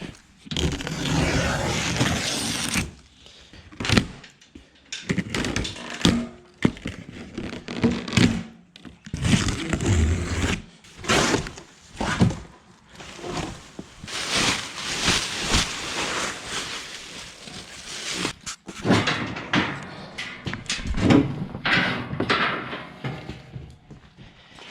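Unboxing a stump grinder: shipping packaging pulled open and heavy parts handled, an irregular run of scraping and rustling broken by many sharp knocks and thunks.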